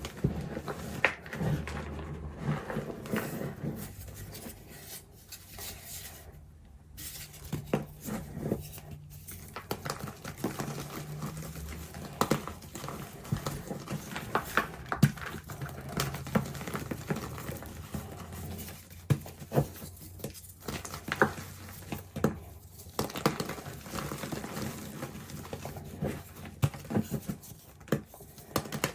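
Reformed gym chalk crunching: a dense, irregular run of crisp crackles and clicks, close to the microphone.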